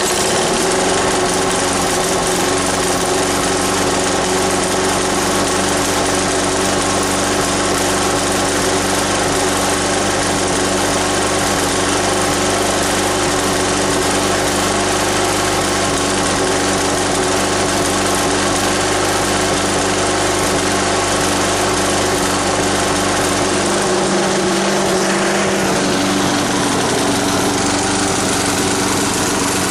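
Craftsman Eager-1 6.75 hp self-propelled mulching mower's single-cylinder four-stroke engine running steadily just after a cold start. Its note rises a little about three-quarters of the way through.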